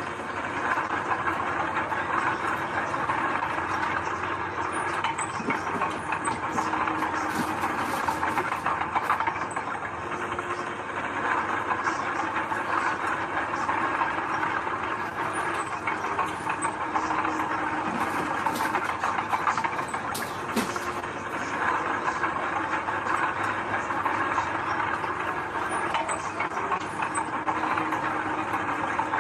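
Heavy diesel earthmoving machine working steadily, most likely a crawler bulldozer, its engine running under load with a continuous clanking and rattling that fits steel tracks.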